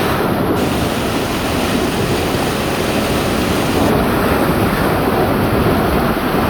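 Steady, loud rush of a fast-flowing river.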